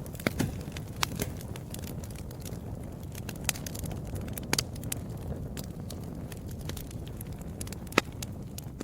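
Wood fire crackling in a fireplace: a steady low rumble of the flames with scattered sharp pops, the loudest about eight seconds in.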